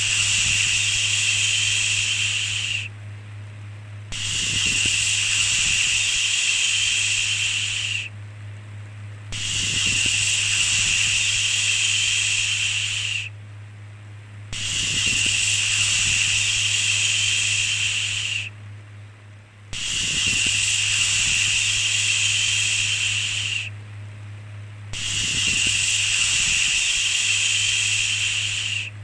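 A 'shhh' shushing sound repeated in slow cycles: each hiss lasts about four seconds, followed by a pause of about a second, six times in all. A steady low hum runs underneath.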